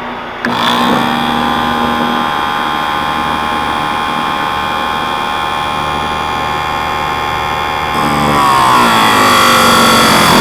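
Harbor Freight electric chainsaw sharpener switched on, its grinding-wheel motor spinning up within the first second to a steady whine. About eight seconds in, the pitch sags and the sound gets louder as the wheel is brought down onto a chain tooth and grinds under load.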